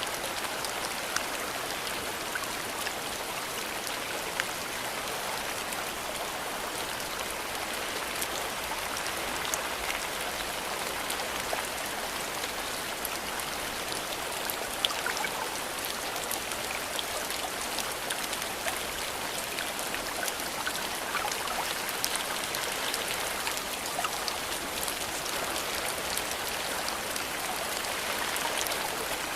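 Steady rain falling, a constant hiss with many small drops ticking through it.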